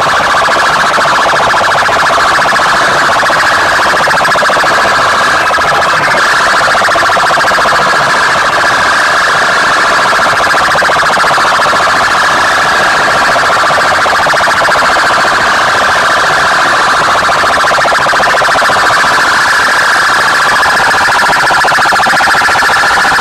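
Loud, distorted alarm-like tone with a rapid pulse, held without a break, blasted through a large DJ loudspeaker system in a sound-box competition.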